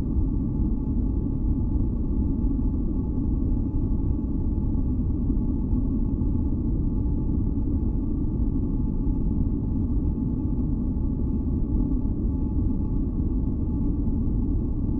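Steady, deep white-noise masking sound, weighted toward the low end like a rumble, with a few faint steady tones running through it. It does not change at all.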